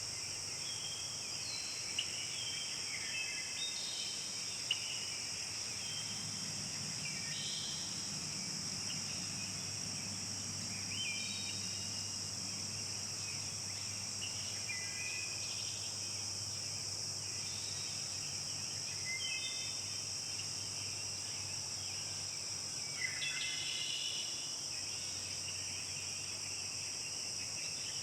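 Forest ambience: a steady high-pitched insect drone, with birds singing short chirping phrases on and off throughout.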